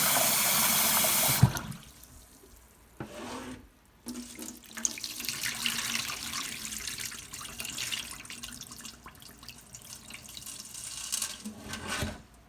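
Tap water running hard into the sink, shut off with a knock about a second and a half in; then softer, uneven sloshing and pouring as water with floating chaff is tipped off the soaking wild bird seed.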